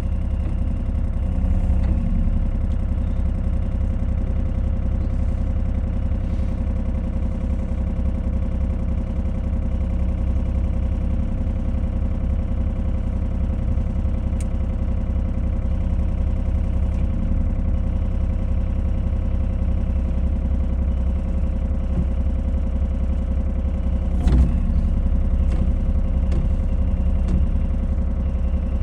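Mini excavator engine running steadily while the machine is maneuvered, with its pitch dropping slightly about two-thirds through and a single sharp clank near the end.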